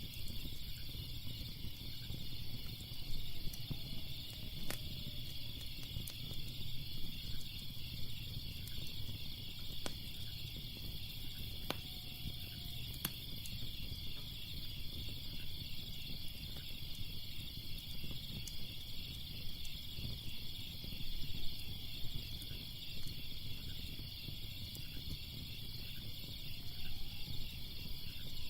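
Fire crackling, with a few sharp pops standing out, under a steady high chirring of insects.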